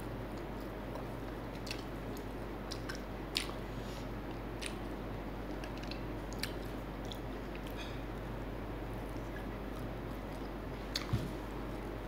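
Close-up chewing of fried chicken, with scattered crisp crackles as the fried breading is bitten and pulled apart by hand. The sharpest crackles come about a third of the way in and as a quick pair near the end.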